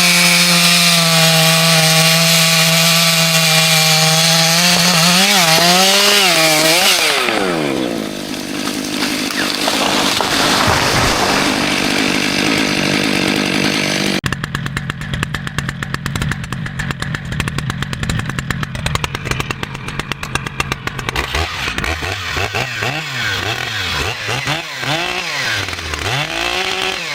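Two-stroke chainsaw running at high revs, its pitch wobbling and dropping as it loads into the wood, then cutting steadily. About halfway through the sound changes abruptly to a chainsaw revving up and down.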